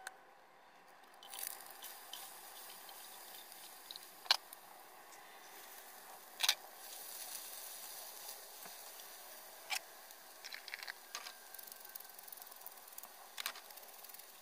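Sliced potatoes frying in a pan: a faint steady sizzle, broken by a few sharp clicks and knocks of a spatula as they are stirred.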